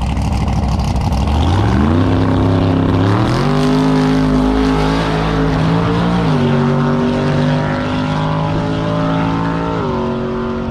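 Car engine accelerating hard: its pitch climbs over about two seconds, holds high, then drops twice, near the middle and near the end, like gear changes.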